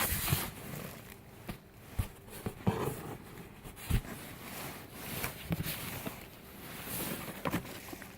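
Folded dress shirts being handled in a box: irregular rustling of cloth and packaging with scattered light knocks.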